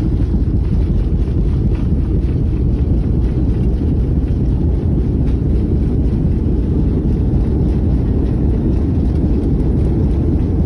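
Steady low rumble of a Boeing 757's jet engines, heard through heavy wind buffeting the microphone.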